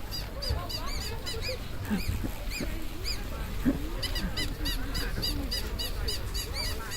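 Animal calls: a rapid series of short, high, arching chirps, several a second and thinning out for a while near the middle, with lower, irregular gliding calls beneath and a steady low hum throughout.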